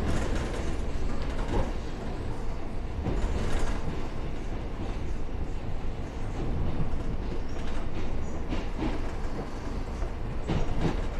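Cabin noise of an electric multiple-unit commuter train rolling slowly through a station, a steady rumble of wheels on rail with occasional clacks over rail joints.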